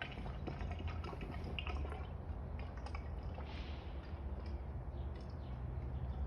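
Fork oil pouring and dripping through a funnel into a motorcycle front fork tube, with many small drips and ticks over a steady low hum.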